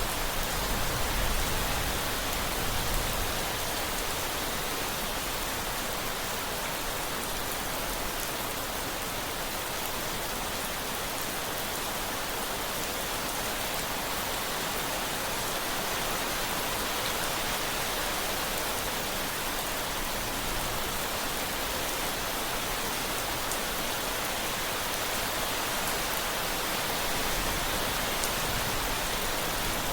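Steady heavy rain, an even hiss of falling drops with no let-up, with a faint low rumble near the start.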